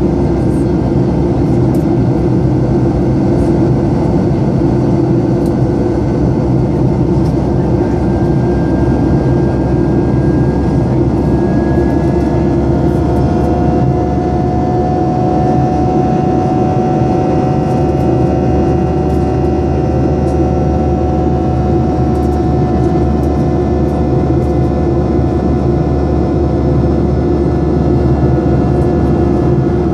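Boeing 737-800 airliner heard from inside the cabin: the CFM56 jet engines and airflow make a steady, loud rumble. From about the middle on, a whine within it slowly rises in pitch.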